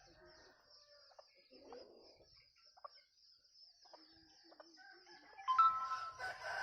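Bantam rooster crowing, one loud drawn-out crow starting about five and a half seconds in, after a few faint, scattered fowl calls. A steady high-pitched trill runs underneath.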